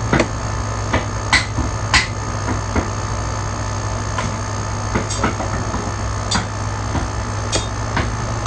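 Gold Star window air conditioner running on low cool: a steady low hum from its rotary compressor and fan, with sharp irregular clicks and taps over it.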